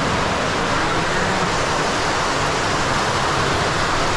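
Cave waterfall rushing steadily, a constant loud hiss of falling water.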